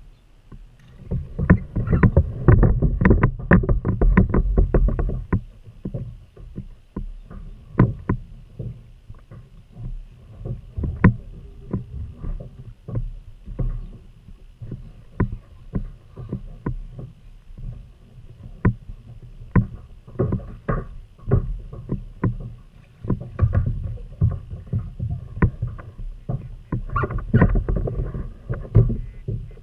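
Irregular knocks, taps and bumps on a kayak over a low rumble, thickest in the first few seconds and again near the end.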